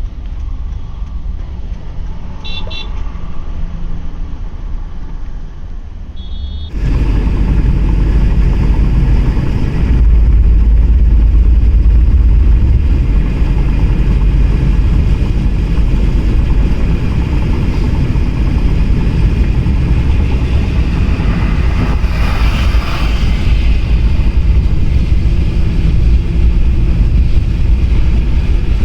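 Road noise of a car being driven: a steady low rumble and hiss, with a couple of short horn toots in the first seconds. The sound steps up louder about seven seconds in and stays loud.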